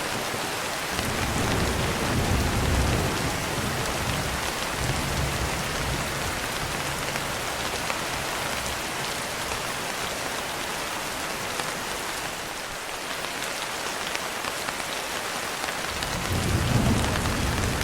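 Steady heavy rain hissing, with low rolling thunder rumbles: one starting about a second in and fading over several seconds, another building near the end.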